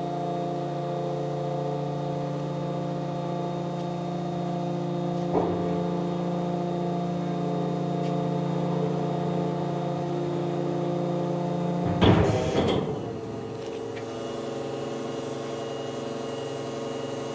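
Hydraulic system of an Isuzu electric rear-loader garbage compactor truck running steadily with a hum of several steady tones while the push plate pushes the garbage out of the body. There is a knock about five seconds in and a loud rattling clatter around twelve seconds, after which the hum goes on at a different pitch.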